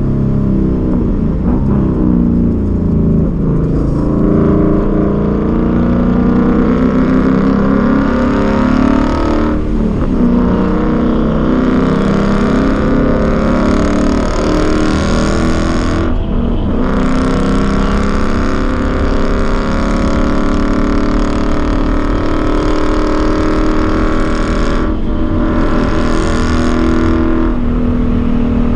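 Ford Mustang's engine running hard at track speed, heard from inside the cabin. Its note sweeps up and down, with three short breaks: about a third of the way in, near the middle and near the end.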